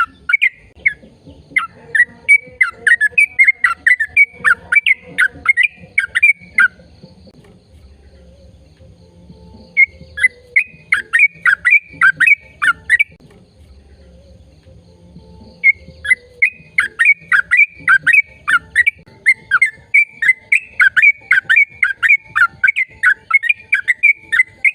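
A bird chirping, a quick run of short, high, downward-sweeping notes about three or four a second. It comes in three bouts, with pauses of about three seconds between them.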